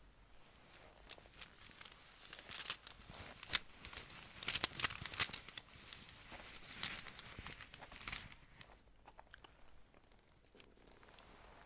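Close-miked hand-handling noise: a dense run of crackles and sharp clicks, busiest in the middle and thinning out near the end.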